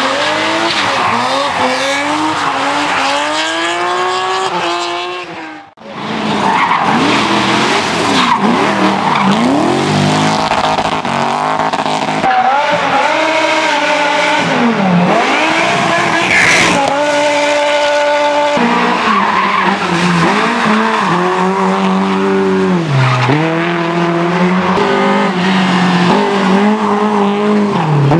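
Drift cars' engines revving up and down repeatedly through hard throttle work, with tyre squeal and skidding over them. The sound dips briefly about six seconds in, and later the engine holds one steady note for about two seconds.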